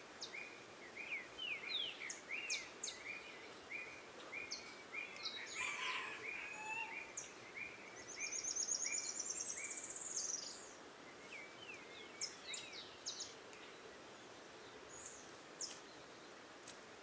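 Wild forest birds calling. One bird repeats a short call note about twice a second for the first seven seconds, a fast high trill runs from about eight to ten seconds, and scattered high chirps fall throughout.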